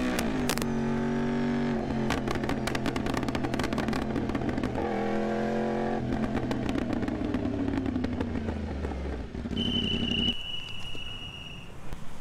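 Yamaha R1M's crossplane inline-four engine running at high revs. It holds a steady note, then crackles and pops on the overrun, rises briefly about five seconds in, and winds down until it drops away about ten seconds in.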